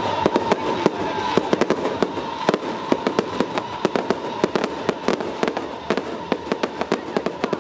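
Firecrackers going off in a rapid, irregular string of sharp bangs, with a steady high tone underneath.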